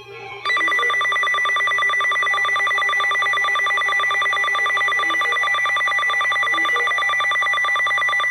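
Weather radio alert alarm sounding for an incoming severe thunderstorm warning: a loud, rapidly trilling electronic tone that cuts in about half a second in and holds steady.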